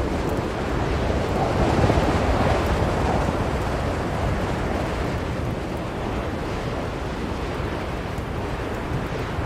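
Blizzard wind blowing steadily, with a gust swelling about two seconds in and then easing.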